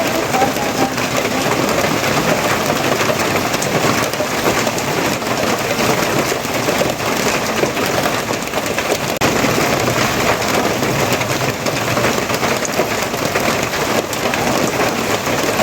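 Steady, heavy rain falling and pattering on surfaces in an even, continuous hiss.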